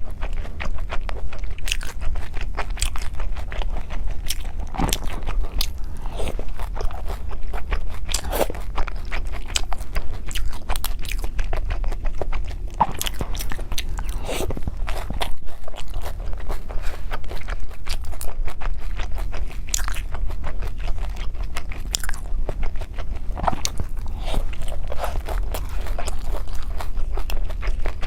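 Close-up eating sounds of cake being bitten and chewed, a dense run of small wet clicks and smacks, over a steady low hum.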